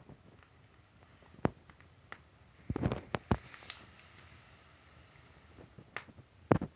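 A few sharp knocks and clicks from the metal stove door being handled: a single knock about a second and a half in, a quick cluster around three seconds in, and two more near the end.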